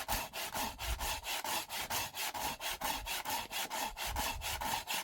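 A hand tool worked back and forth in quick, even strokes, about four or five a second, a scraping, rasping sound that runs on without a break.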